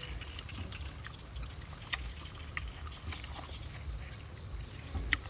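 Chewing and lip-smacking as meat is bitten and torn off roasted goat-leg bones: scattered short wet clicks, over a steady low rumble of wind on the microphone.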